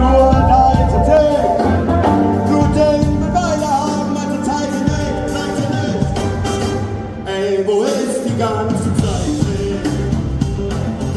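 Live band playing a rock song, with a singing voice over guitars, bass and drums.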